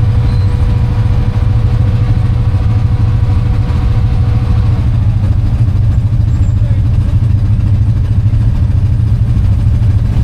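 ATV engine running steadily during trail riding, with a thin steady whine that stops about halfway through.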